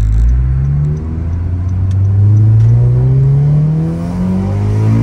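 A 9th-generation Honda Civic Si's 2.4-litre K24 four-cylinder, with an aftermarket downpipe and exhaust, heard from inside the cabin under hard acceleration. The engine note climbs steadily and drops at gear changes about a second in and again near the end.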